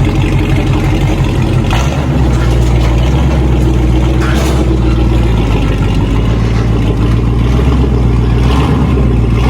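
Ford Mustang Shelby GT500's V8 running at idle through a straight-piped Akrapovič exhaust, a steady low rumble whose note changes and settles about two seconds in.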